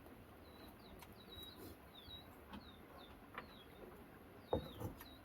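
Faint, quick high chirps of a small bird, repeated about two or three times a second, with two soft knocks near the end.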